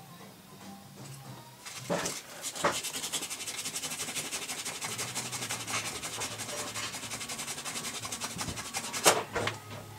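Hand sanding with coarse 80-grit sandpaper, a quick, even run of back-and-forth strokes taking down a high spot on a jukebox part so it will fit. A few sharp knocks break in near the start, and the loudest comes near the end.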